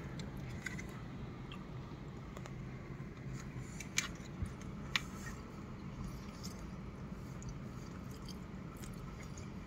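Quiet chewing of a soft cookie, with a few small clicks about four and five seconds in, over a steady low hum.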